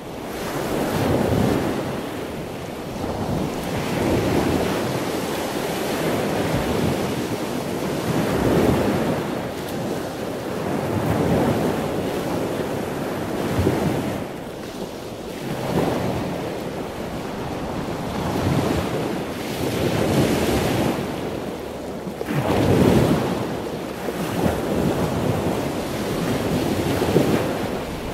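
Ocean surf: waves rushing in and breaking one after another, swelling and falling back every few seconds.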